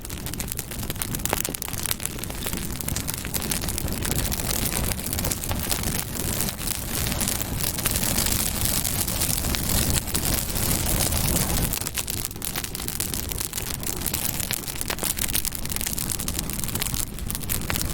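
Campfire burning, with dense crackling and popping over a low rumble of the flames.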